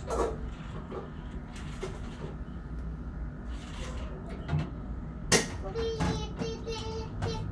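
Soft handling knocks and rustles over a steady low hum, with one sharp click about five seconds in. Right after the click a child starts singing in the background.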